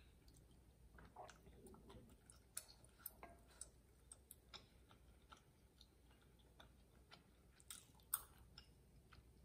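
Faint close-up eating sounds of chewy rice cakes and glass noodles: scattered small wet mouth clicks, with a few sharper knocks of a wooden spoon in a ceramic bowl, the loudest about eight seconds in.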